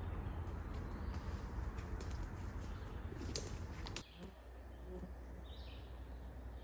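Woodland ambience: a steady low rumble and hiss with a few sharp clicks, dropping suddenly about four seconds in, after which faint short bird calls are heard.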